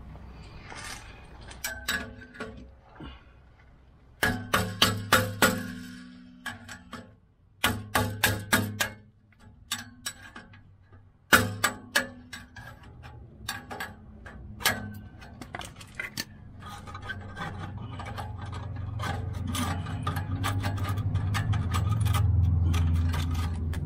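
Tool work cutting a rusted exhaust flex pipe off the truck: bursts of sharp metallic strikes in quick runs of about five a second. Near the end a steadier low running sound builds up.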